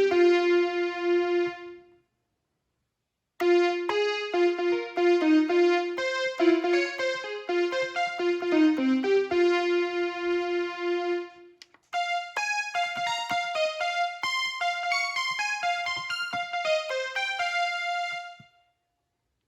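Akai MPK Mini Play MK3 playing an electric piano sound: melodic notes over a repeated held low note, in three phrases, with a pause of about a second and a half near the start and a brief break about twelve seconds in, the last phrase higher and without the low note.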